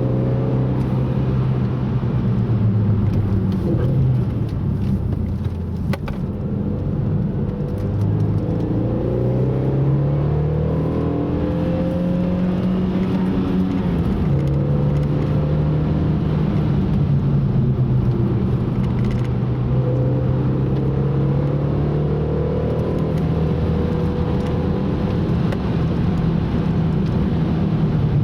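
Car engine driven hard on a lap, its pitch rising and falling with the throttle. Near the middle it climbs steadily and then drops suddenly at a gear change, over steady road noise.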